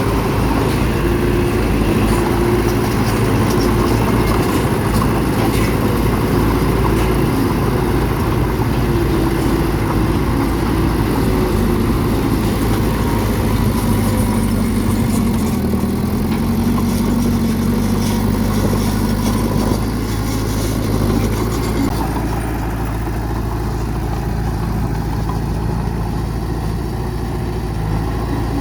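Bulldozer's heavy diesel engine running steadily, with light clanking through the first half, easing off a little about three-quarters of the way through.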